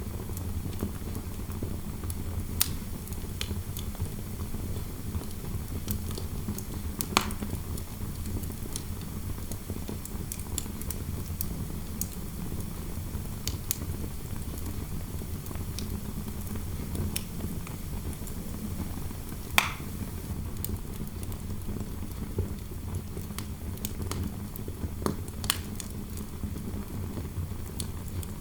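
Wood fire crackling, with scattered sharp pops (the loudest about seven, twenty and twenty-five seconds in), over a steady low rumble of wind.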